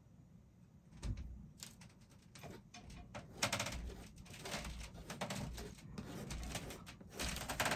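Quick irregular taps and scrapes of a paintbrush working dark paint onto a canvas, starting about a second in.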